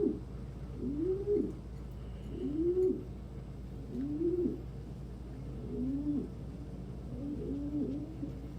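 Domestic pigeons cooing: a steady run of low, rising-and-falling coos about every second and a half, joined by a second bird's overlapping coos from about six seconds in.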